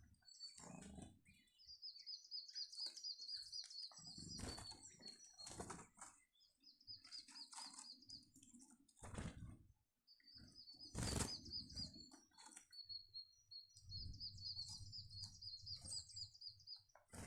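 Small garden birds chirping faintly in quick repeated runs of high notes, with several brief wing flutters between them.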